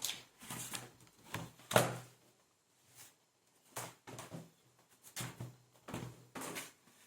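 Handling noises from unboxing a new laptop: a string of short knocks, taps and rustles from the laptop and its packaging, the loudest knock about two seconds in.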